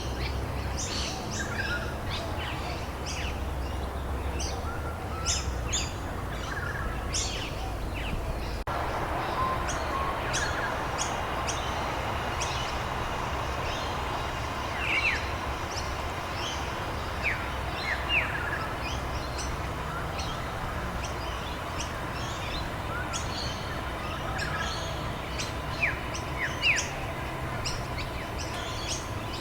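Many birds chirping and calling in short, repeated notes over a steady hiss of rain. The hiss gets louder abruptly about nine seconds in.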